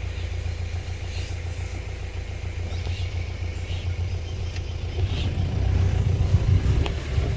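Safari vehicle's engine running with a steady low rumble, growing louder about five seconds in.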